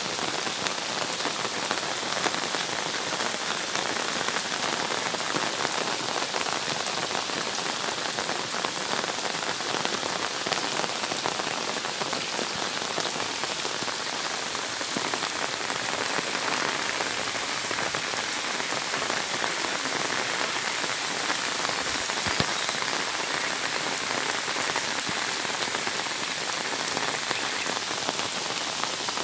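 Steady heavy rain pattering on surfaces: a dense, even hiss of countless drops.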